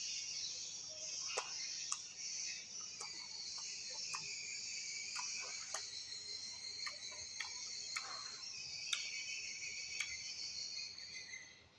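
Close-miked chewing of crunchy unripe fruit: a steady crisp crunching with sharp clicks every second or so, breaking off briefly at the very end.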